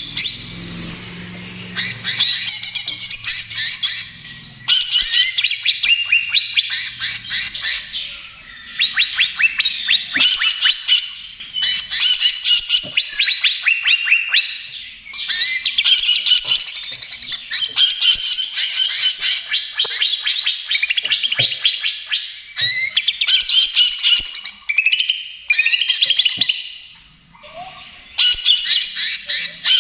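Cucak ijo (green leafbird) singing a fast, nonstop run of chirps, trills and rough notes in long phrases with short breaks between them.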